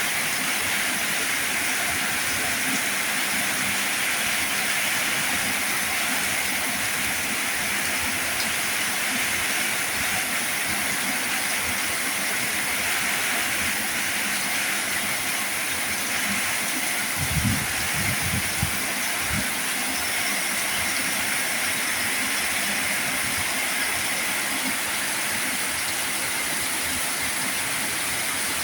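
Heavy rain falling steadily, an even hiss. A few low thumps come close together about two-thirds of the way through.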